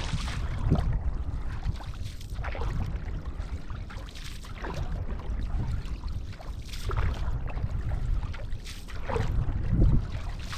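Canoe paddle strokes in the water, one swish and splash about every two seconds, over a steady low rumble.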